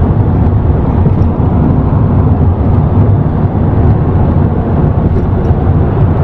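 Steady low rumble of road and tyre noise inside a moving car.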